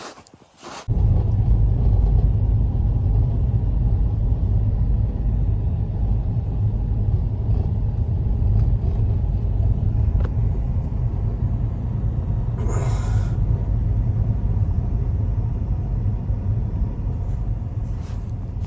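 Strong wind buffeting the microphone in a snowstorm: a steady low rumble that starts abruptly about a second in, with a brief hiss about two-thirds of the way through.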